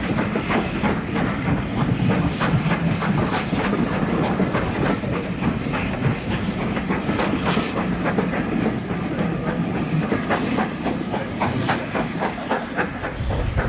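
A steam-hauled train running past, its wheels clattering over the rail joints with a steady rumble, and steam hissing under it.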